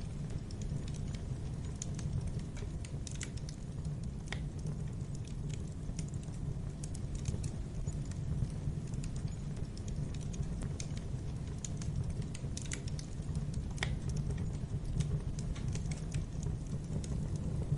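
Wood fire in a fireplace crackling: irregular sharp pops and snaps over a steady low rumble of the flames, with a couple of louder pops about four and fourteen seconds in.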